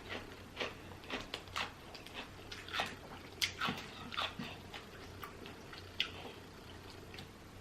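Close-up mouth sounds of someone eating seafood boil: irregular wet smacks, sucks and small crunches, several a second, thinning out after about six seconds.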